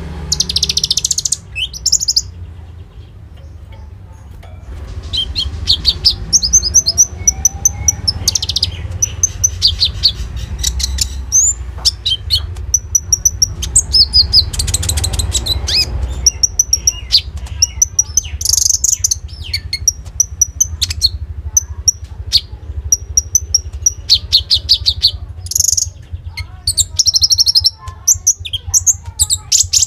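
Konin songbird singing: bursts of fast, high, repeated trills and sharp chirps broken by short pauses, over a steady low hum.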